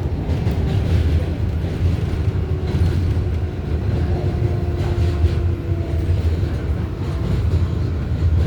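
Rumble of an R188 subway car running at speed between stations, wheels on rails. A faint steady tone rides over it for a few seconds in the middle.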